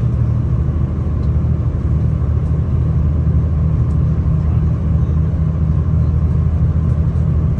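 Steady low rumble of a V/Line regional passenger train travelling along the line, heard from inside the carriage.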